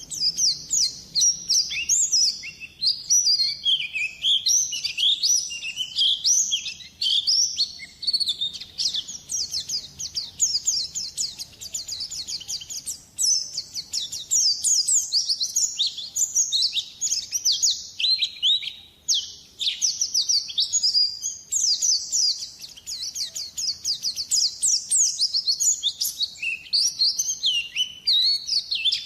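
White-eyes (pleci) twittering: a fast, nearly unbroken run of high, quick chirps and trills that sweep steeply up and down.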